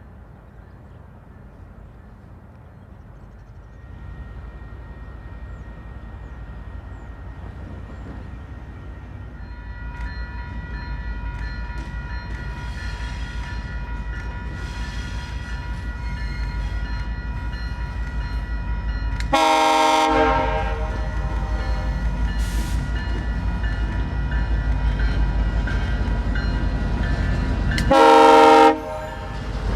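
An F59PH diesel-electric locomotive hauling a train approaches, its engine and running gear growing steadily louder with a steady whine above the rumble. Its air horn sounds a chord in two short blasts, about 19 seconds in and again near the end.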